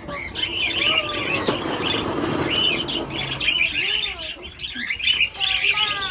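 A group of small birds chirping, many short, quick calls overlapping continuously, with a few lower, arching calls among them.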